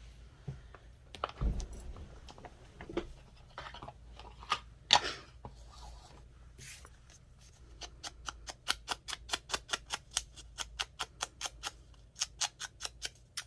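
Inking paper edges with an ink pad or blending tool: a few scattered taps and rubs, then about halfway through a steady run of quick short scrubbing strokes, about four a second.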